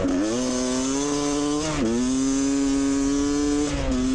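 Dirt bike engine under way, singing as it revs up through the gears. The pitch climbs, drops sharply at a gear change about two seconds in, holds steady, then dips again near the end.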